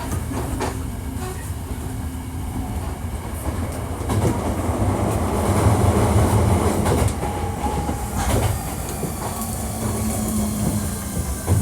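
Running noise of a Hankyu 1300 series commuter train heard on board: wheels rumbling on the rails with a few rail-joint clicks and faint steady motor tones, the rumble growing louder about four to seven seconds in. This set is marked as one with an unusual running noise.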